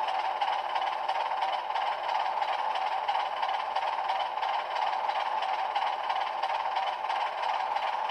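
HO-scale ALCO HH600/660 model locomotive's LokSound V5 decoder playing its diesel engine sound through a sugar cube speaker, running steadily. The sound is thin, with almost no bass.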